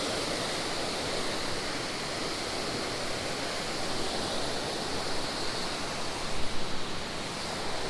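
Steady rushing of a creek waterfall, an even wash of falling water. A few brief low bumps, like buffeting on the microphone, come about six to seven seconds in.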